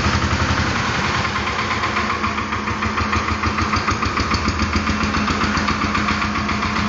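Engine of an Agria walk-behind tractor (motocultor) converted to four wheels, running steadily with an even pulsing beat.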